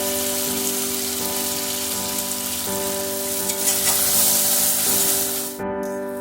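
Okra frying in hot oil in a pan, sizzling steadily. The sizzle drops out briefly near the end, then resumes.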